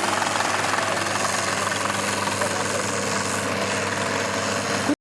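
Tractor engine running steadily with an even hum, cutting off abruptly at the very end.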